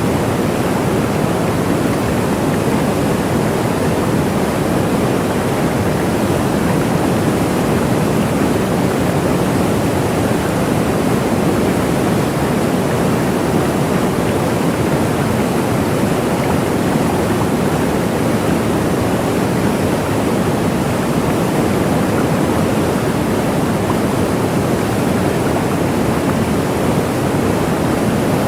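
Waterfall: water falling and rushing in a steady, unbroken roar of noise, weighted low, with no changes.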